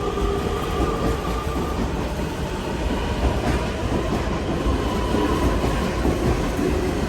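Metra Electric double-deck electric multiple unit train running past, its wheels clacking over rail joints. Steady whining tones fade about two seconds in and another returns a second or so later.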